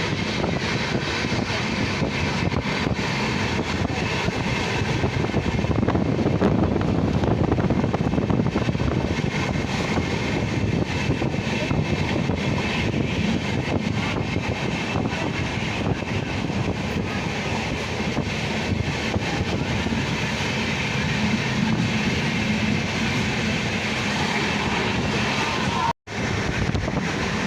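Train running on the rails: a steady, loud rumble and clatter. It cuts out for a moment near the end.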